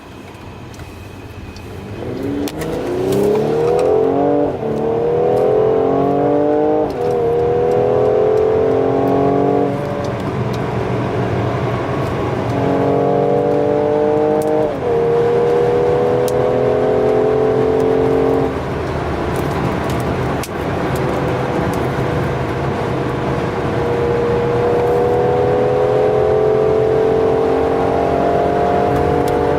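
Mercedes-AMG GLC 43's twin-turbo V6 under hard acceleration. The engine note climbs, drops sharply at each upshift a few times, eases off twice, then climbs slowly and steadily at high speed near the end.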